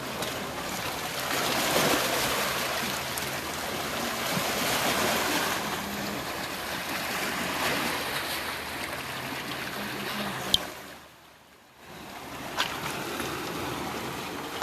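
Sea waves washing on the shore, a steady rushing that swells and eases. About two-thirds through there is a sharp click, then a brief lull before the rushing returns.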